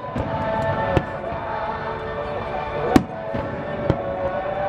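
Fireworks bursting: three sharp bangs, the loudest about three seconds in, over music playing with the display.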